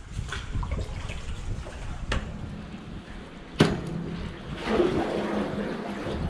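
Kayak paddling: water splashing and dripping off the paddle, with two sharp knocks about two and three and a half seconds in, the second the loudest, then a longer splashing stroke near the end.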